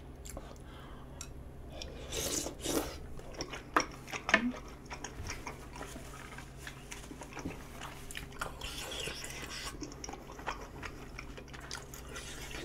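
A person chewing and biting food at close range on a sensitive microphone, with a few louder crunchy bites about two to four seconds in. A faint steady hum lies underneath.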